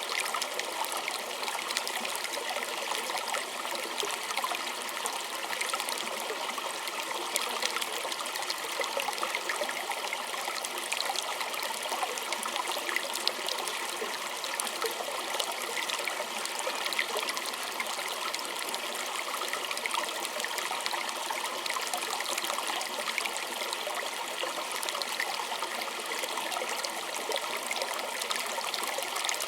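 Small stream of water trickling and babbling steadily over stones, a continuous splashy hiss full of fine droplet ticks.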